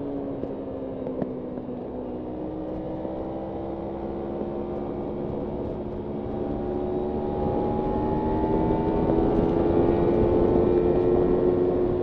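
Kawasaki Ninja 300's parallel-twin engine pulling while riding, its pitch climbing gradually and getting louder through the second half, then easing off slightly near the end.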